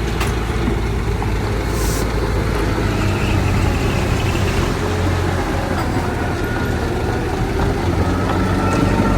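Heavy diesel earth-moving machinery running steadily, with faint whining tones drifting in pitch and a short hiss about two seconds in.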